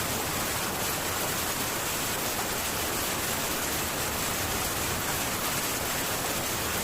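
Heavy rain falling steadily on a metal tin roof, an even hiss with no thunder.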